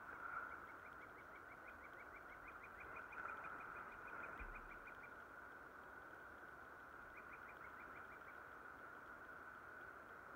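Faint bird trill: a quick run of short thin notes, about five a second, lasting a few seconds, then a shorter run again later, over a faint steady hiss.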